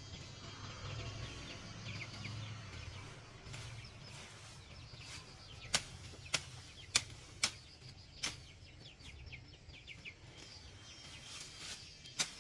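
Faint bird chirps over a low rumble, with a run of five sharp clicks about half a second apart past the middle and one more near the end.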